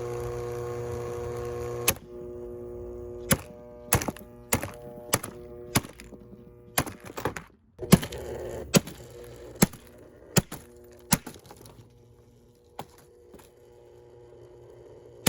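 Vintage Tatung 16-inch table fan's motor humming with a buzz, then a dozen or so hard, sharp blows at uneven intervals as the fan is smashed, with the motor's hum carrying on more faintly between them.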